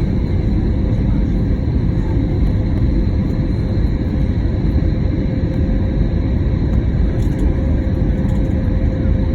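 Steady cabin noise inside an Airbus A320neo airliner in flight: a loud, even rumble of airflow and engines with a faint steady hum over it.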